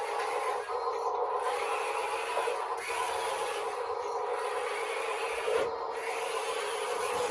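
Hydraulic pump of a radio-controlled model construction machine whining steadily while it works, with light scraping and a single knock about five and a half seconds in.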